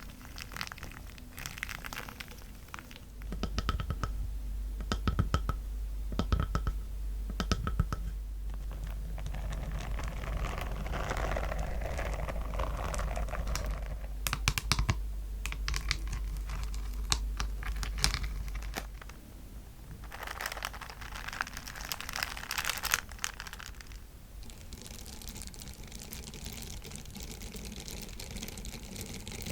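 Close-miked ASMR triggers in quick succession: crisp tapping and clicking on assorted objects alternating with crinkling and scratching, with a low steady hum under the first half.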